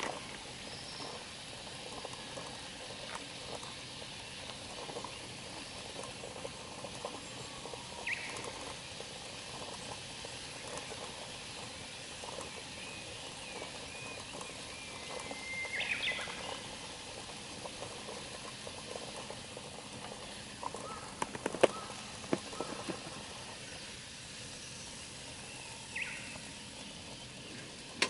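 Wood campfire crackling, with many small scattered pops and a cluster of louder snaps a little past the middle.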